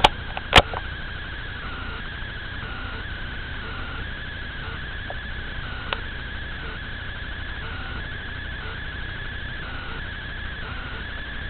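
A steady, wavering high whine that pulses evenly, with a few sharp clicks near the start and about six seconds in.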